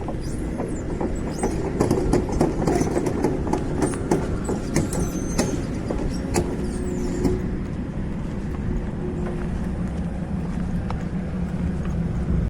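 A vehicle passing close by: a loud low rumble with many clicks and brief high squeaks in the first half, settling into a steady low hum before it cuts off near the end.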